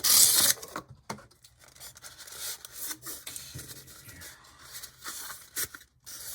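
Hands handling an HO-scale model locomotive and its packaging: a short, loud rustle at the start, then scattered rubbing and scraping of plastic.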